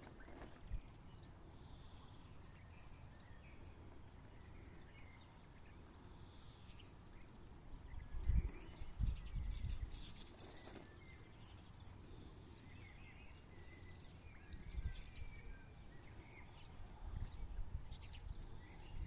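Quail softly chirping now and then, with faint rustling and scratching. A few low thumps come about halfway through.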